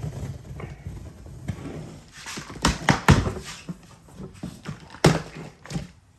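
Handling of a large cardboard shipping box: rustling and scraping with several thumps, the loudest in the middle and about five seconds in.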